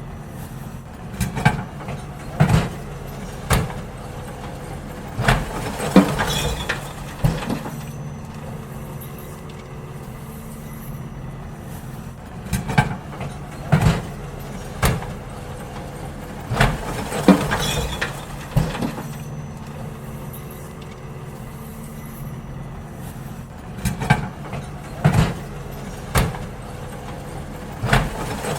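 Garbage truck's engine running steadily while rubbish bins are emptied into it, with three clusters of loud knocks and bangs as bins are tipped and shaken out, about every eleven seconds.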